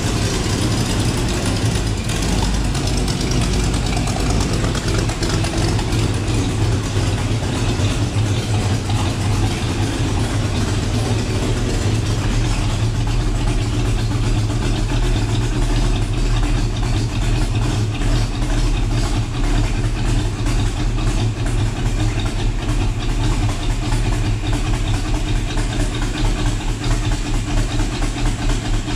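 El Camino's engine idling steadily on a freshly installed Holley EFI throttle-body system while flooding: it is running very rich.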